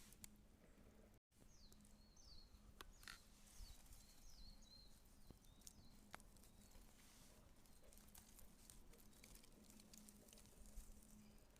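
Faint campfire crackling: scattered small clicks and pops of burning wood. A bird chirps a run of short falling notes in the first half.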